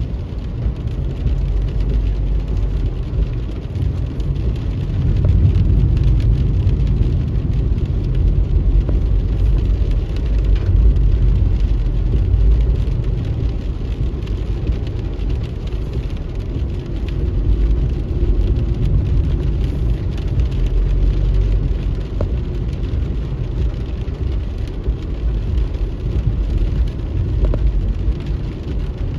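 A car driving in rain: a steady low rumble of engine and tyres on a wet road, with faint patter and ticks of rain.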